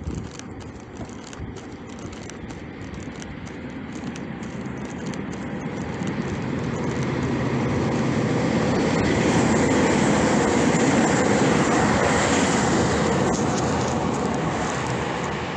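A train passing by, its rumble growing louder to a peak about ten seconds in, then fading away.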